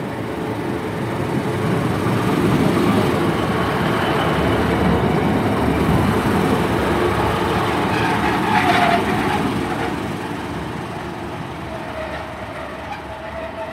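Class 150 diesel multiple unit running into the platform and slowing, its rumble swelling and then easing off, with a brief squeal about eight seconds in, before settling to a lower steady hum.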